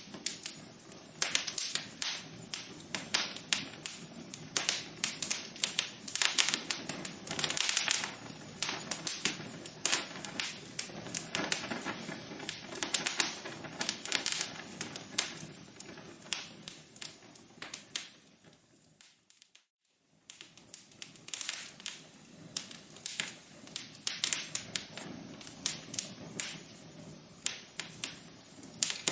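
Wood fire in a fireplace crackling, a dense run of irregular sharp snaps over a soft hiss. It dies away to near silence for about a second a little past two-thirds through, then the crackling resumes.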